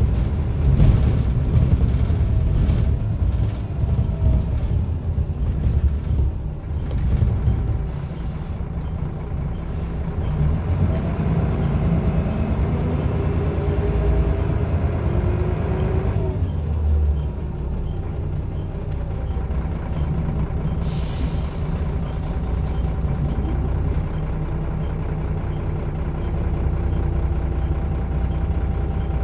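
Scania L94UB bus's five-cylinder diesel engine running steadily, with its pitch rising and falling through the middle as the ZF automatic gearbox takes the bus through its gears. A short hiss of released air comes about twenty seconds in.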